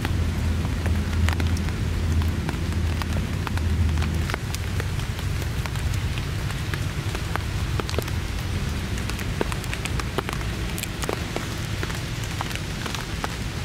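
Torrential rain falling steadily, with many separate drops tapping on a surface close by.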